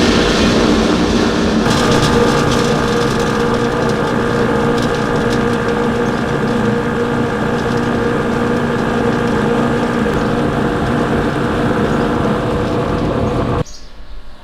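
Electric machine running steadily with a loud hum and whine, cutting off suddenly about a second before the end.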